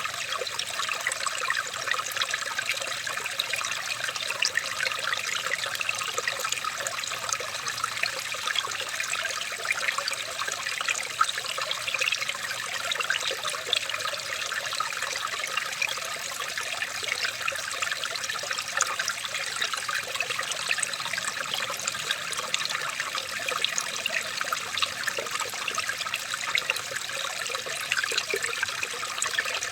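Running water trickling and babbling steadily, with many small splashes and bubbles, like a small stream.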